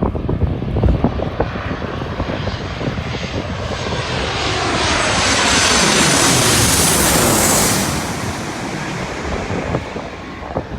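Jet airliner passing low overhead: the engine noise swells to a peak with a high whine, then drops in pitch and fades as it goes by. Wind buffets the microphone near the start.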